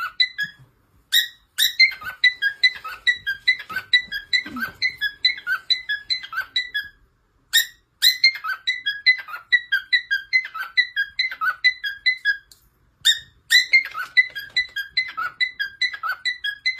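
A small pet bird chirping rapidly, short high squeaky calls about three or four a second, in four long runs with brief pauses between them.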